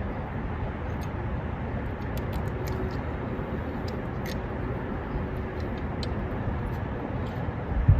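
Steady low outdoor rumble, with faint scattered clicks from small metal parts (a bolt and gasket) being handled in the engine bay.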